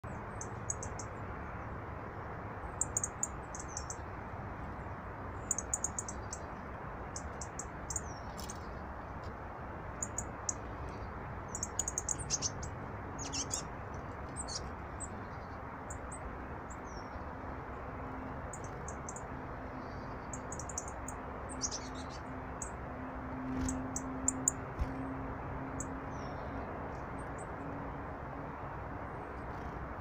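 Small songbirds calling with short, high chirps in quick clusters on and off throughout, over a steady low background rush.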